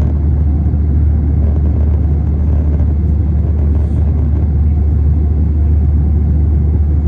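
Steady low rumble of cabin noise inside an Airbus A321 in flight: engine drone and airflow, with no change in level.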